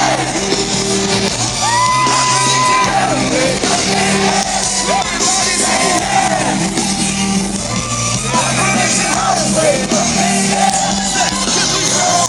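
Live pop band music played loud over a festival sound system, with a lead vocal singing and the crowd shouting along. About two seconds in, a singer holds one long note.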